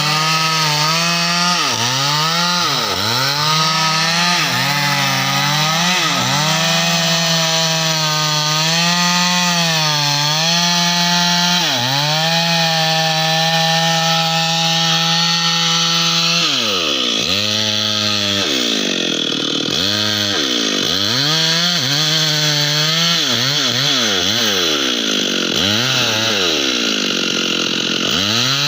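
A chainsaw runs at high revs while cutting teak. Its engine note dips and climbs back again and again as the chain bites under load, dipping more often in the second half.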